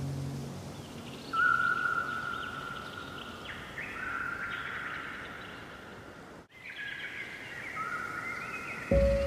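Several songbirds singing over each other in short whistles, chirps and trills, the loudest a clear whistled note about a second in. The sound drops out for an instant about two-thirds through, and musical notes come in right at the end.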